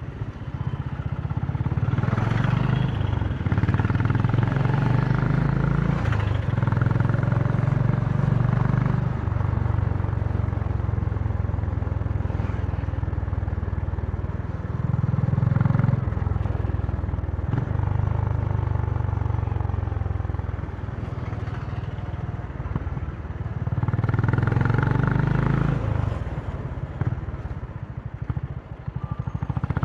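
Honda CB350 motorcycle exhaust note while riding: the engine pulls up through the revs and eases off several times, with short breaks between the pulls, loudest about a quarter and again four-fifths of the way through.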